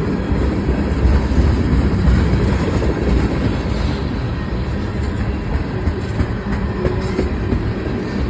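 Freight train cars rolling past at close range: a steady, loud noise of steel wheels on the rails.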